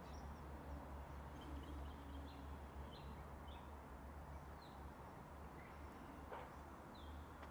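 Faint ambience: a steady low rumble under several short, high bird chirps scattered through, with one brief click about six seconds in.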